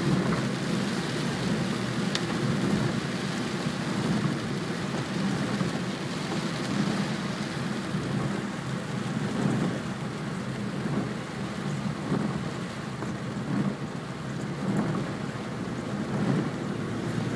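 Rain falling on a moving car together with tyre and road noise on the wet road, heard inside the cabin: a steady rushing rumble that swells and eases slightly.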